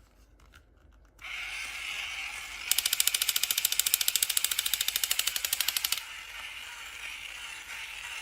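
A rapid, even train of sharp clicks, about eleven a second, lasting about three seconds over a steady hiss.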